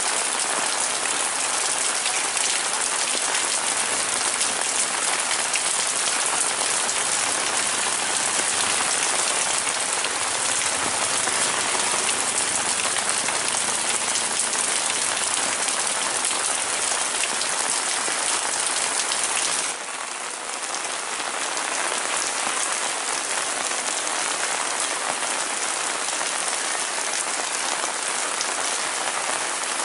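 Heavy, steady rain falling on leaves, grass and a wet footpath. About two-thirds of the way through, the sound shifts abruptly to a slightly quieter, duller rain.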